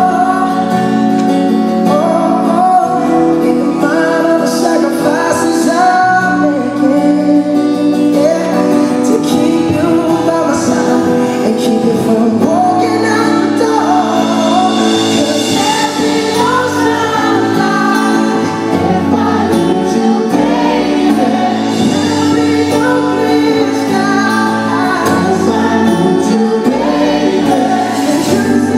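Live pop ballad performance: singing over sustained keyboard chords and band accompaniment, loud and continuous.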